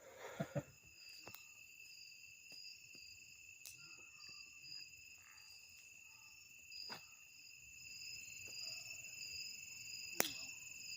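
Crickets and other night insects chirping steadily in several high pitches, one of them pulsing. A few short clicks or knocks sound over the chorus, the sharpest one near the end.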